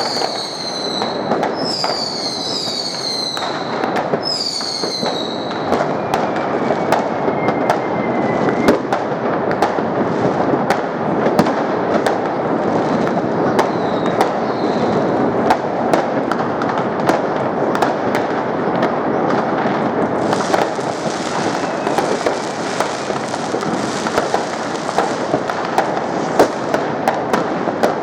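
Many fireworks and firecrackers going off at once: constant dense crackling and banging with frequent sharp cracks. Several high whistles fall in pitch during the first five seconds, and a fainter falling whistle follows a few seconds later.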